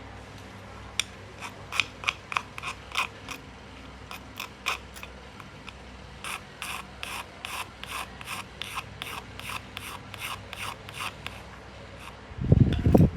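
Antique Junghans clock movement clicking: sharp metallic clicks, irregular at first, then a steady run of about three a second. About a second before the end, a loud low rumbling thud.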